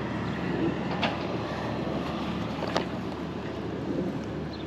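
Rooftop air-conditioning unit running with a steady mechanical drone and hum, with two sharp clicks, about a second in and again near three seconds.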